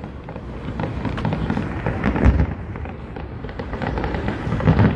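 Aerial fireworks going off: a steady run of crackling pops, with a heavy boom about two seconds in and another near the end.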